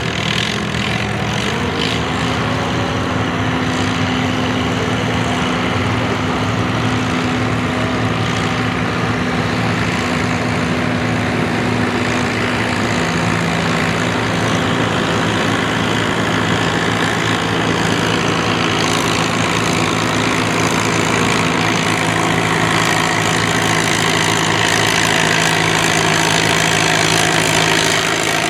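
Classic farm tractor engine running steadily, its pitch stepping down about halfway through and the level rising slightly toward the end.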